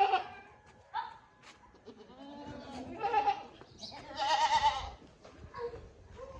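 Sirohi goats bleating: a short call about a second in, then two longer, wavering bleats in the middle.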